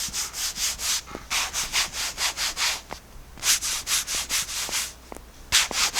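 Quick back-and-forth rubbing strokes across the ottoman's cured silicone coating, about four to five a second in several runs with short pauses between. The strokes compare a sanded, smooth patch with an unsanded, rough one.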